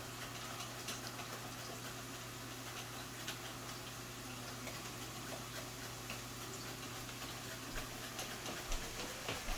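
Green plantain being sliced thin for chips: faint, irregular light clicks and ticks of the blade going through the fruit, a few louder near the end, over a steady low hum.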